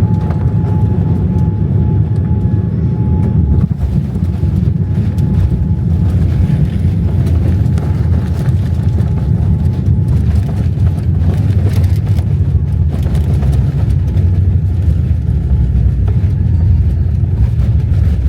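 Boeing 787-9 landing in strong wind: a loud, steady low rumble. A faint steady whine fades out about ten seconds in, and scattered clicks and rattles follow.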